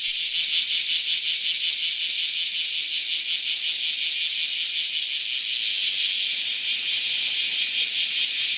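Cicada calling: a steady, high buzzing rasp made of rapid pulses, running on without a break.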